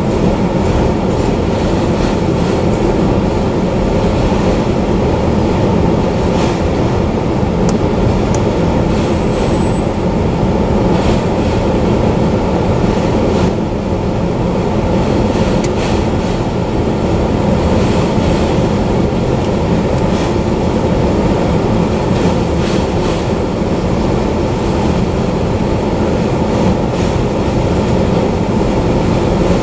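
Autorack freight cars rolling past: a steady rumble of steel wheels on rail, with scattered clicks and clanks and a short high tone about nine seconds in.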